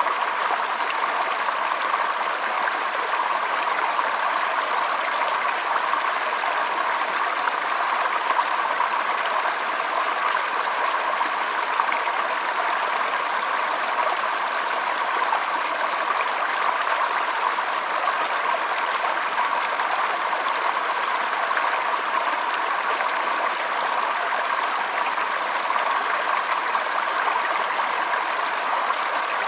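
Shallow stream trickling and babbling over stones, a steady continuous flow.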